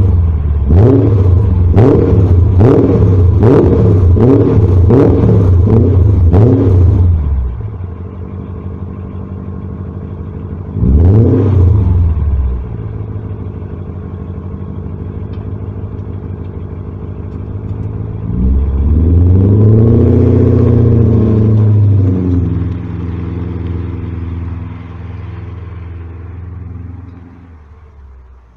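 BMW E39 M5's 4.9-litre V8 through a Fox exhaust with a Magnaflow X-pipe: a quick run of throttle blips, about one a second, then idle. A single short rev follows, then a longer rev held for a few seconds before it drops back to idle, which grows quieter near the end.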